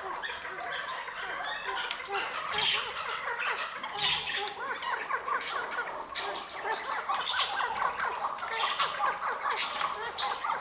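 Chukar partridge calling: a fast, continuous run of short repeated clucking notes, with a few sharp clicks among them.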